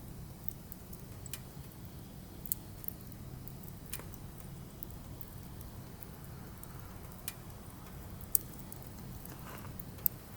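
Burning firewood crackling, with scattered sharp pops at irregular intervals, the loudest about eight seconds in, over a steady low rumble.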